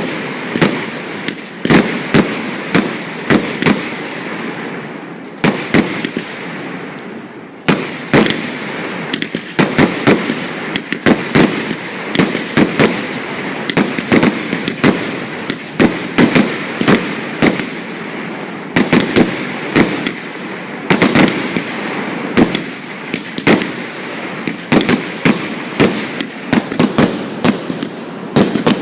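New Year's Eve fireworks: a dense, continuous string of sharp bangs and firecracker reports, several a second, over a constant noisy background of more fireworks.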